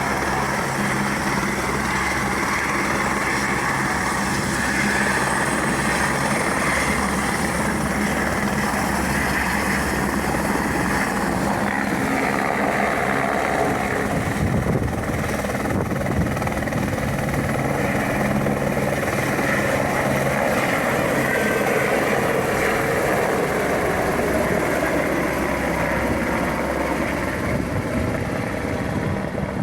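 Helicopter rotor and turbine engine running: a loud, steady mechanical sound with a low hum that shifts a little about halfway through.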